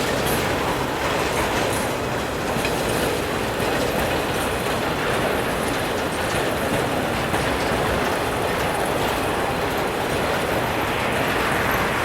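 Freight train cars rolling past, their wheels clattering steadily over the rails.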